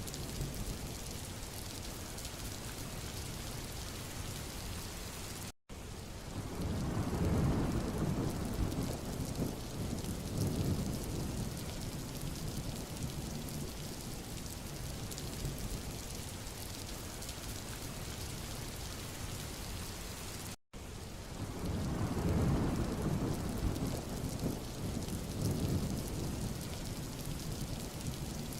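Steady rain hiss on a road surface. Twice the sound cuts out for an instant, and each time a deep rolling rumble swells up and dies away over several seconds.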